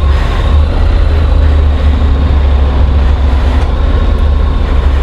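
Honda NC750 parallel-twin motorcycle running, heard from the rider's own bike as a steady low rumble of engine mixed with wind noise.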